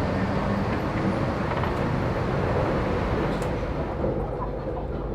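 Steady low rumble and hum of Bangkok's BTS Skytrain rail transit, with no distinct events standing out.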